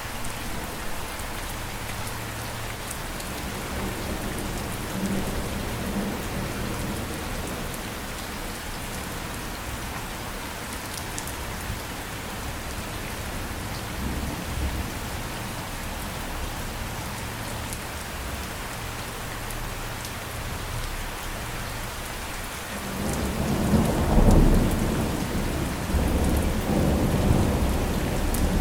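Steady rain falling. Near the end a low roll of thunder swells up and keeps rumbling.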